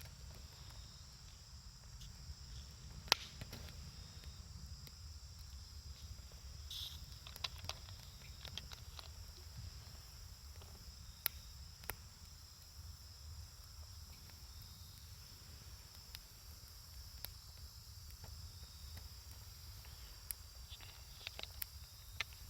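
Wood campfire crackling, with scattered sharp pops, the loudest about three seconds in and a small flurry near the end. A steady high insect trill runs underneath.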